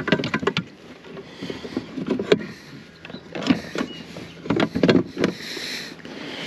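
Irregular knocks, clicks and rustles of handling gear aboard a plastic fishing kayak, in a few short clusters.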